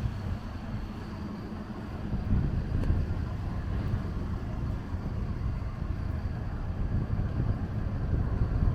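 Steady rainy city-street ambience: a low rumble of traffic on wet roads, with wind buffeting the microphone.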